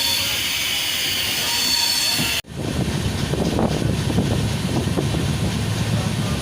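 Train running on the rails: a loud hiss with thin high steady tones from the wheels, then, after an abrupt cut about two and a half seconds in, a deeper rumble of the train rolling on.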